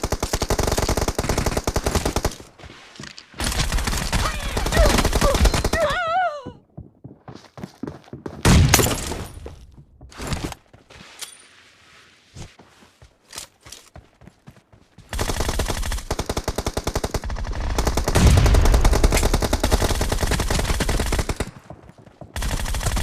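Automatic gunfire in a team-based shooter video game: several long bursts of rapid fire, with a single heavier blast about eight and a half seconds in and a quieter lull in the middle.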